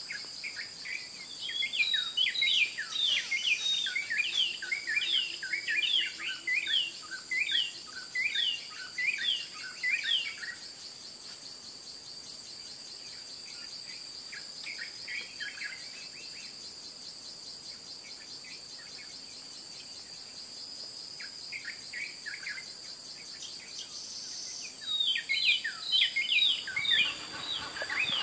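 A steady, high-pitched insect drone, with a bird calling over it in fast runs of short, falling notes. The bird calls for about ten seconds, briefly and faintly again later, and starts up loudly again near the end.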